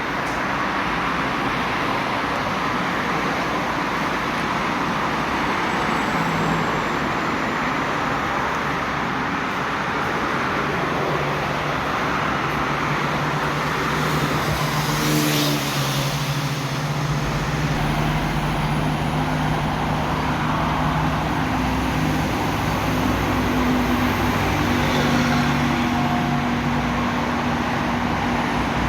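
Steady flowing highway traffic, with cars and heavier vehicles passing continuously. A low engine hum from larger vehicles comes in about halfway through and grows a little stronger near the end.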